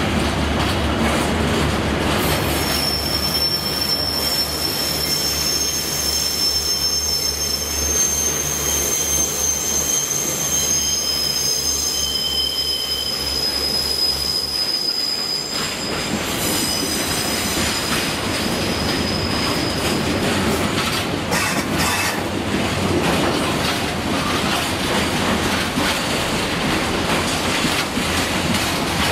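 Empty steel freight wagons rolling slowly past close by, with a rumble and clatter of wheels on rail and high-pitched wheel squeal that comes and goes over the first two-thirds. A low steady drone stops about halfway through.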